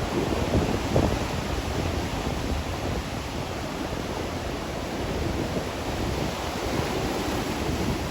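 Heavy sea surf: big waves breaking and washing in, with strong wind rumbling on the microphone.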